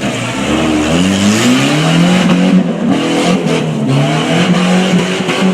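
Big vehicle engine revving up and down over and over, its pitch rising and falling every second or so.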